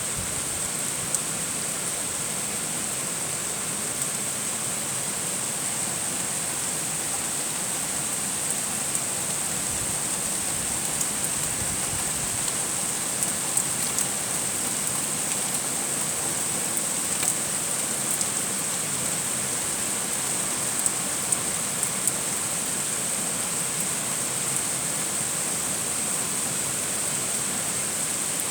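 Heavy rain falling steadily, an even hiss with scattered sharper drop hits.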